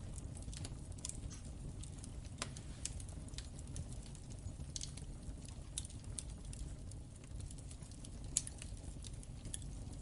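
Wood fire crackling in a fireplace: irregular pops and snaps over the low, steady rumble of the flames, with one louder pop a little after eight seconds in.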